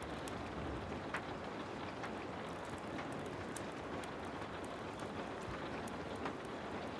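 Heavy rain falling as a steady hiss, with scattered sharp crackles from a wood fire.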